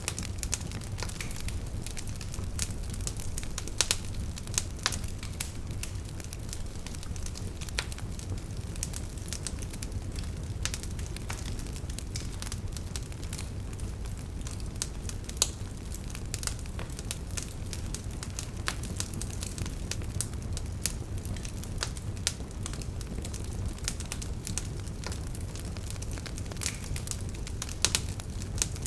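Wood fire crackling, with frequent irregular sharp pops and snaps over a steady low rumble of the burning.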